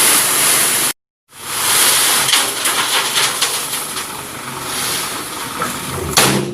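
Loaded dump truck on the move, heard as a loud, steady hissing rush with scattered knocks and a sharper knock near the end. The sound cuts out briefly about a second in.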